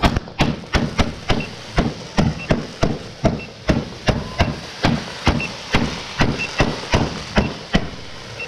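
A multi-shot firework cake firing, a rapid even string of sharp bangs about two to three a second, each with a short echo.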